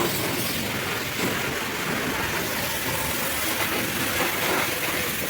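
High-pressure washer jet spraying water onto a muddy truck, a steady, even spray noise without breaks.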